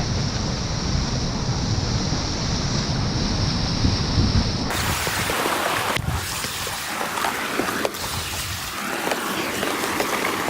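Rushing river water with wind buffeting the microphone, heavy and rumbling. About four and a half seconds in it switches abruptly to a brighter hiss of water with scattered knocks and splashes.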